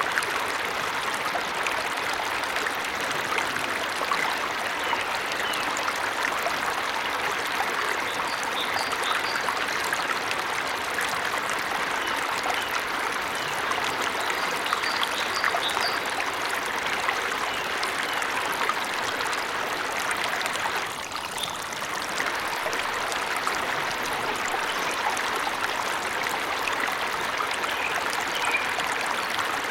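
Forest waterfall: steady splashing and rushing of falling water, briefly dipping about two-thirds of the way through. Faint bird chirps come through now and then above the water.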